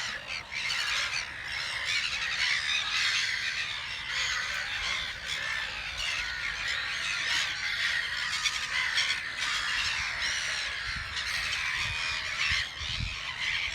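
A colony of gulls calling all at once, many harsh, noisy calls overlapping without a break. A few low thumps come near the end.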